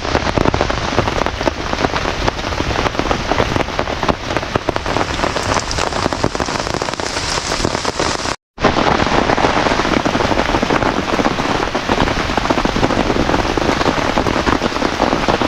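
Heavy rain falling steadily. The sound cuts out for a moment about eight and a half seconds in.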